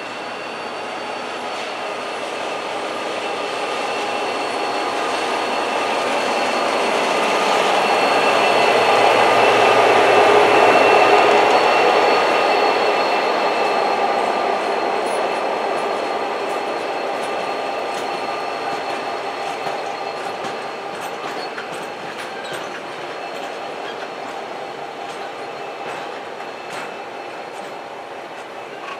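Diesel-hauled freight train passing, building to its loudest about ten seconds in and then slowly fading, with a steady high-pitched wheel squeal throughout.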